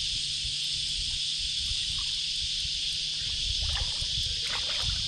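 Steady high-pitched chorus of cicadas, with water splashing and trickling that grows a little louder in the last second or two as a hooked fish is worked near the kayak.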